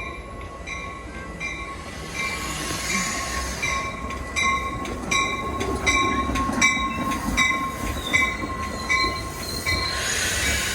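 A train rolling past with high wheel squeal. Over the rumble, a high ringing tone repeats evenly about two to three times a second.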